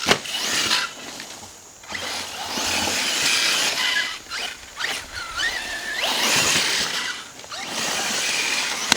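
Arrma Mojave electric RC truck driven hard in bursts, its brushless motor whining and its tyres hissing over dirt as it speeds up and backs off several times. A sharp bang right near the end.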